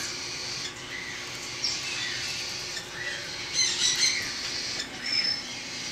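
Baby parrot chicks squawking and chirping in short, high calls scattered through, with a louder cluster about three and a half seconds in; hungry hand-fed chicks begging before a feeding.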